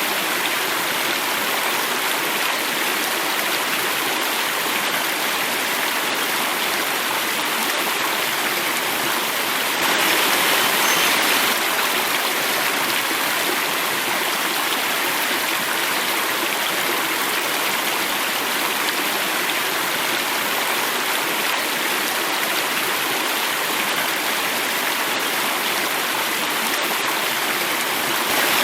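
Running water flowing and falling, a steady rushing. It gets a little louder and brighter for a second or two about ten seconds in.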